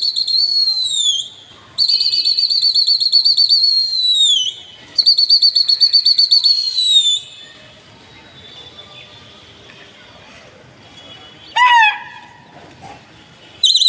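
A person whistling in long warbling trills, three in a row, each a couple of seconds and dropping in pitch as it ends, then two short whistles later on.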